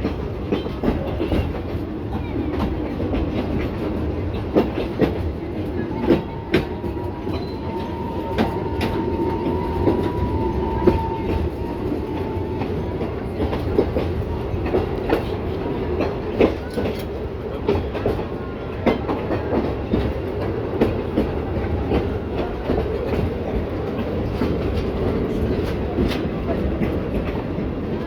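Metre-gauge steam-hauled train running along the line: a steady rolling rumble with irregular clicks and clacks of the wheels over the track. A faint, thin squeal sounds for several seconds about six seconds in.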